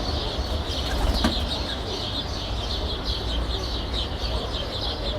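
Residential street ambience: small birds chirping busily, over a steady low hum of distant traffic, with a short knock about a second in.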